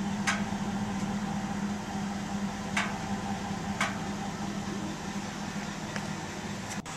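A steady mechanical hum with a low tone running through it, broken by three sharp clicks.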